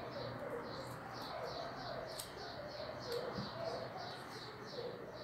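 Birds chirping: a small bird repeats a short high chirp in a fast, even series, about four or five a second, with a dove cooing lower down. A couple of faint clicks come around the middle.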